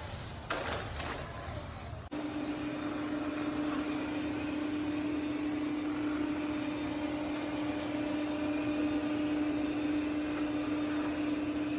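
ECOVACS DEEBOT T50 PRO Omni robot vacuum's self-emptying and mop-washing base station running. A noisier stretch with a short rush of sound about half a second in is followed, after a cut about two seconds in, by a steady motor hum over a hiss.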